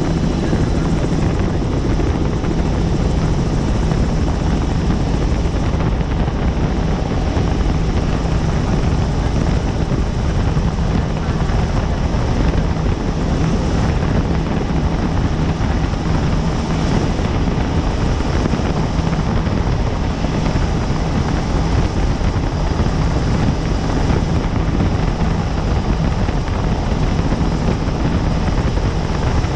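Helicopter in flight: steady, unchanging rotor and engine noise with a strong low hum.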